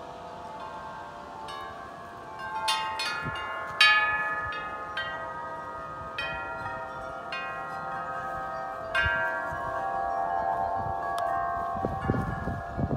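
Metal wind chimes ringing in gusty wind, their tubes struck in irregular clusters and left ringing, with the loudest strike about four seconds in. Low wind rumble on the microphone near the end.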